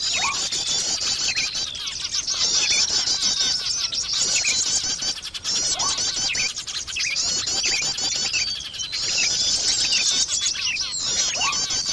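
Recorded chorus of small songbirds played as a bird-catching lure (pikat). Dense, fast, high chirping trills come in repeating blocks every second or two, over quick downward-sliding whistles and short rising notes.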